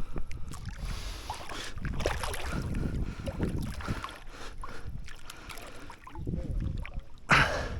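Water sloshing and splashing around a person wading and swimming, with wind buffeting the microphone and a sharper, louder splash-like noise near the end.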